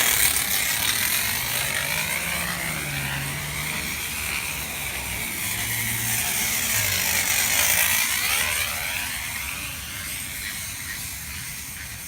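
Bicycle fitted with a homemade noisemaker 'exhaust' riding by: a rapid ratcheting buzz from the wheel whose pitch sweeps down and up with speed, loudest near the start and again about eight seconds in.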